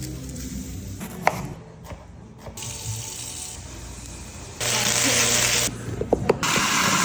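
Kitchen tap running into a sink in two bursts, the first lasting about a second and the second starting shortly after and running on, with a few sharp clinks between them.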